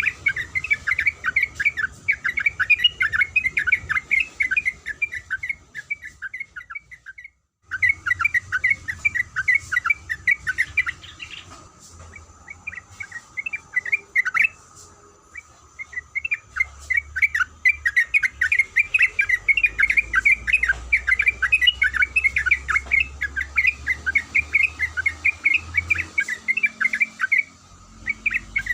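Yellow-vented bulbul (trucuk) singing in long, rapid runs of short chattering notes, with a brief dropout about seven seconds in and a sparser stretch in the middle.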